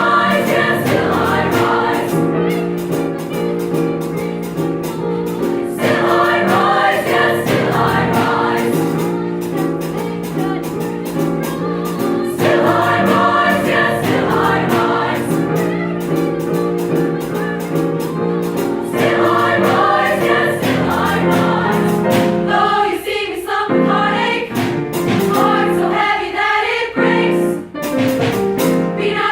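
High school choir singing in several parts, held chords in long phrases, breaking into shorter, detached notes near the end.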